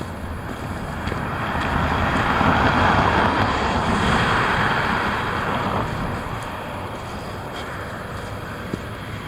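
Strong wind rumbling on the microphone, with a rushing noise that swells for a few seconds in the middle and then fades.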